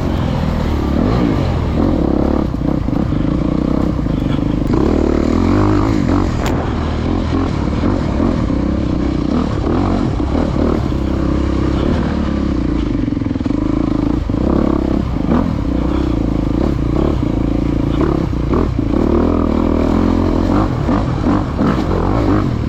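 Off-road motorcycle engine running hard, its pitch rising and falling with the throttle, with scattered clattering knocks from the bike.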